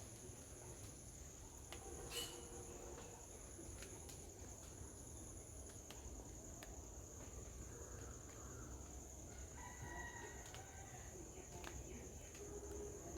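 Faint outdoor ambience: insects droning steadily at a high pitch, with faint distant bird calls, the clearest lasting about a second, about ten seconds in.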